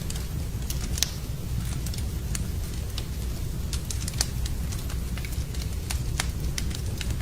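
Wood fire in a fireplace crackling: frequent, irregular sharp pops and snaps over a steady low rumble from the burning logs.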